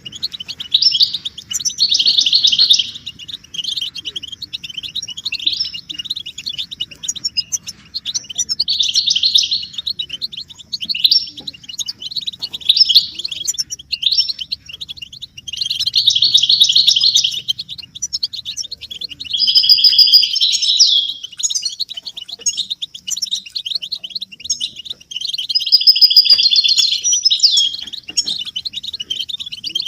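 European goldfinches twittering and chattering: an almost unbroken run of fast, high, tinkling phrases, each a second or two long. This is the excited chatter of goldfinches, the kind of chatter used to stir silent males into song.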